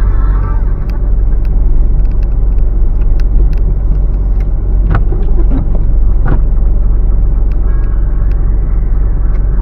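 Steady low rumble of a car driving, with a few brief sharp clicks about five and six seconds in.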